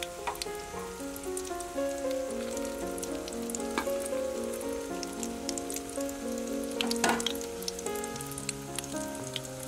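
Battered enoki mushrooms frying in oil in a wok, with a steady sizzle and scattered sharp crackles, loudest about four and seven seconds in. A background music tune plays alongside.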